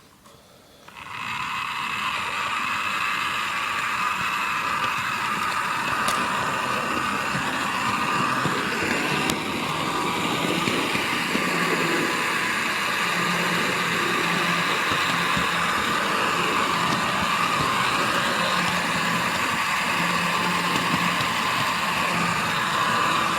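Model railway locomotive running on the track, a steady mechanical running sound that starts abruptly about a second in.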